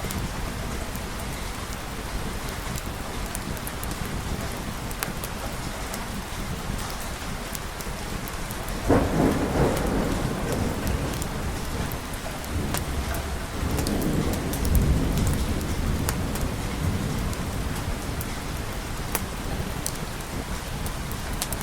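Steady rain with thunder: a sudden thunderclap about nine seconds in that rumbles on for a couple of seconds, then a second, deeper rumble of thunder a few seconds later.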